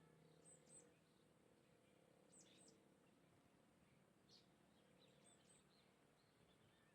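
Faint, short high-pitched bird chirps coming in small clusters every second or two, over a quiet steady hiss.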